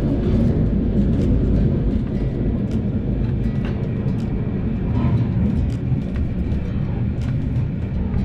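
Matterhorn Gotthard Railway narrow-gauge passenger train running: a steady low rumble with faint scattered clicks from the wheels and track.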